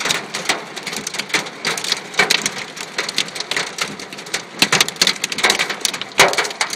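Hailstones, some the size of ice cubes, pelting a car: a dense, irregular clatter of hard ice hits with no letup.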